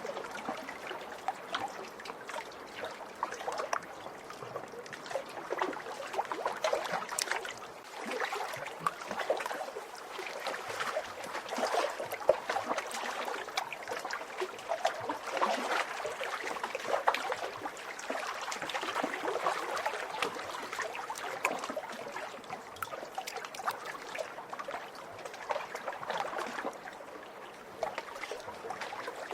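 Small lake waves lapping and splashing against the shore, a continuous irregular patter of little splashes.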